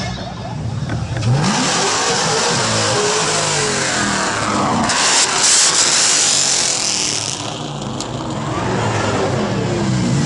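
A car engine revving hard and repeatedly during a burnout, its pitch rising and falling. A loud rushing hiss, typical of spinning tyres, comes in about a second and a half in and dies away after about seven seconds while the revving goes on.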